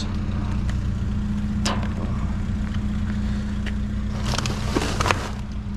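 Vehicle engine idling steadily, with a short rustling clatter about four seconds in.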